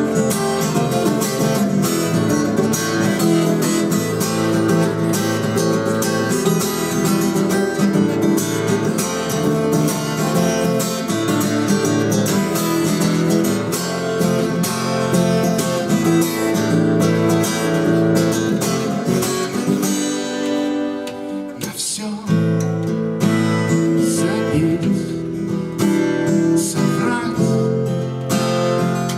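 Acoustic guitar strummed, playing a song, with a brief break about two-thirds of the way through before the playing resumes.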